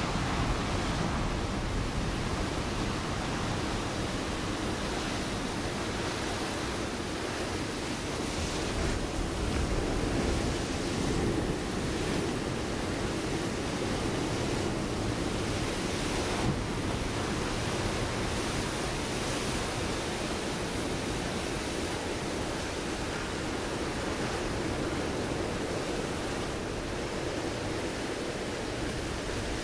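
Ocean waves breaking on a rocky shore: a continuous rushing wash of surf that swells a little at times, with some wind on the microphone.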